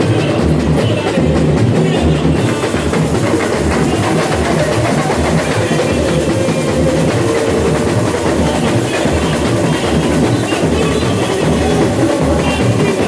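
Samba bateria (drum corps) playing: deep bass drums beating in an even rhythm under a dense layer of lighter drums and percussion.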